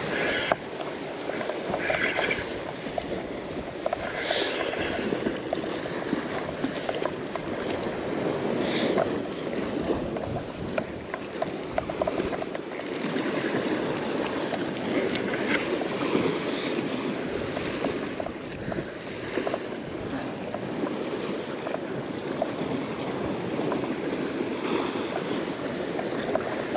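Sea waves washing and surging continuously, with wind on the microphone.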